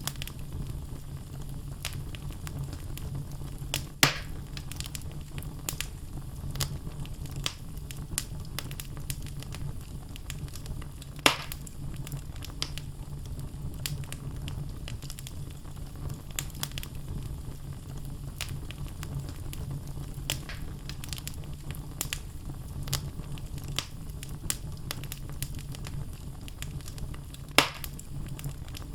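Wood fire burning in a fireplace: a steady low rumble of flame with logs crackling in frequent small clicks, and three louder pops, about 4 seconds in, about 11 seconds in and near the end.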